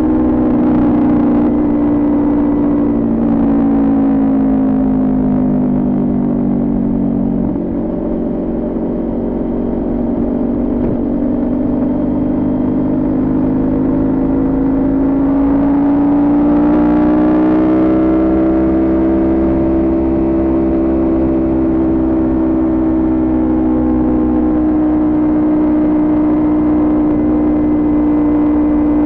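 Kawasaki Ninja 400 parallel-twin engine through a Coffman exhaust, running under way at steady revs. The revs ease off over the first several seconds, then pick up again about sixteen seconds in and hold there.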